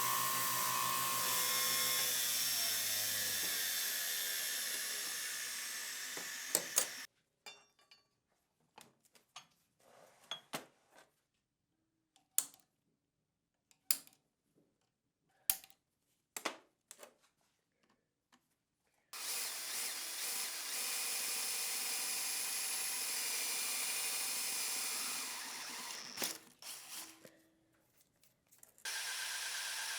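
A power tool running, its motor winding down in pitch and stopping about seven seconds in. Scattered sharp clicks and knocks follow, then the tool runs steadily again for about six seconds from the middle and starts once more near the end.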